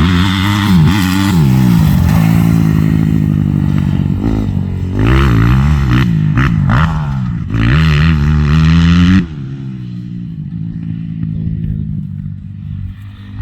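A 2005 Honda CRF250R's four-stroke single-cylinder engine revving hard and easing off again and again as it is ridden around a dirt track. About nine seconds in, the loud engine note cuts off suddenly, and the sound carries on much quieter.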